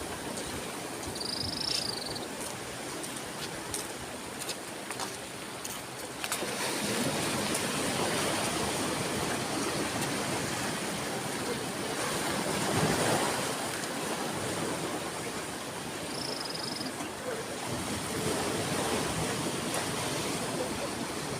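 Ocean waves washing in as a steady rush of surf, swelling louder about seven seconds in and again around thirteen seconds.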